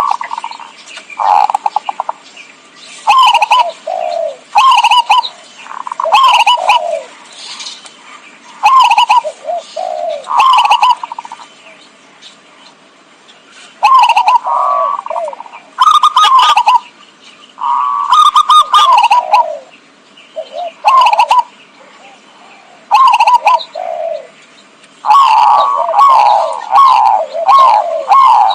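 Zebra dove (perkutut) cooing: phrase after phrase of quick rolling coos with short pauses between them, coming thick and fast near the end.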